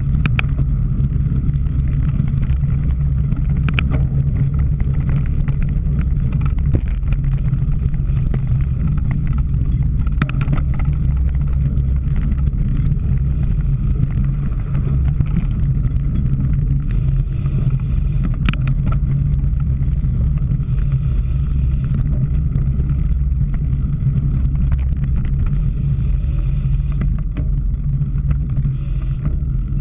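Cyclocross bike ridden over rough ground: a steady, loud low rumble of tyres and wind on the microphone, with a few sharp rattles from the bike.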